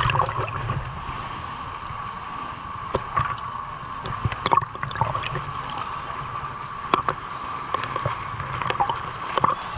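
Pool water sloshing and splashing around a swimmer, heard through a camera's waterproof housing, with a few sharper splashes.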